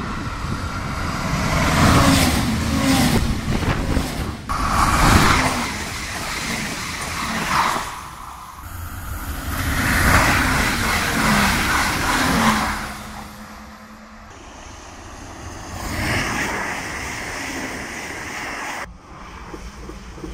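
Coradia Liner V160 (Régiolis) regional trains passing one after another, in several short clips. Each pass-by swells and fades over a few seconds, with a falling engine tone as the train goes by, and the sound changes abruptly between clips.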